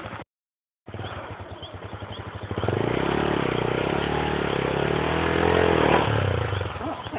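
Honda Tornado 250's single-cylinder engine running, after a brief dropout near the start. It revs up about two and a half seconds in, climbs higher around the five-second mark, then eases off just before the sound cuts.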